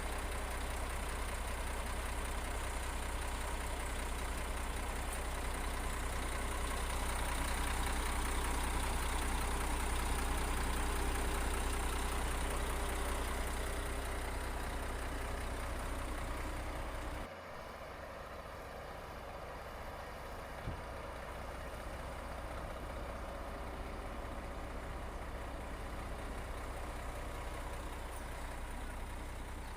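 Heavy earthmoving machinery's diesel engine running steadily with a deep low rumble. Partway through, the sound drops abruptly to a quieter engine sound, with a single short click a few seconds after.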